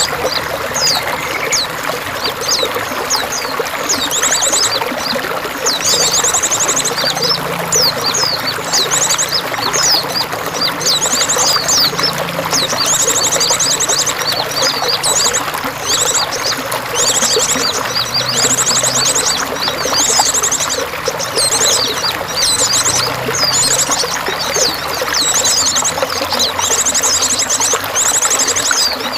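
Steady splashing, pouring water, with small songbirds chirping and giving fast buzzy trills high above it in short bouts throughout.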